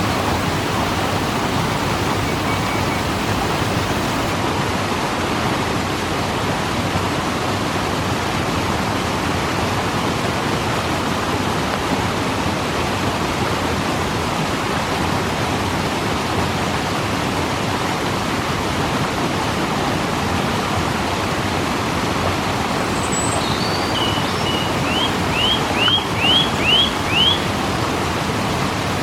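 Waterfall, water falling in a steady, even rush. Near the end a bird gives a quick run of about six short chirps.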